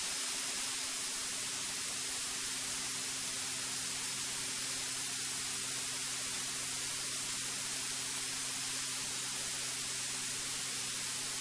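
Steady electronic hiss on the aircraft's intercom audio line, with a faint steady hum beneath it and no voices.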